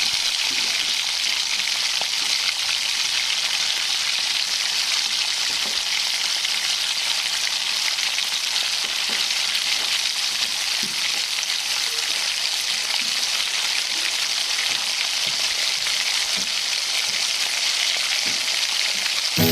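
Food frying in hot oil in a pan: a steady sizzling hiss with faint scattered crackles.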